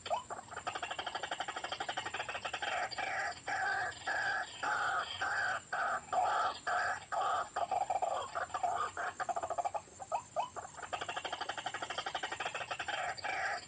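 White-breasted waterhen (ruak-ruak) calls played as a lure from an electronic bird caller: a fast chattering run of rapid notes, then phrases repeated about twice a second, with a few short rising notes about ten seconds in before the fast chatter returns.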